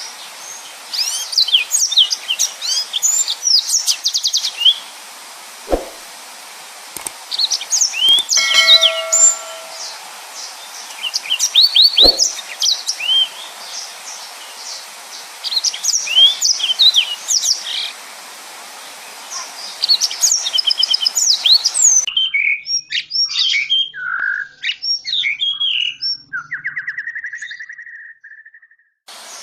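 Yellow-fronted canary singing a fast, chirpy song in bursts of rapid trills. About three-quarters of the way through, the background hiss drops away and the singing goes on, ending in a buzzy trill.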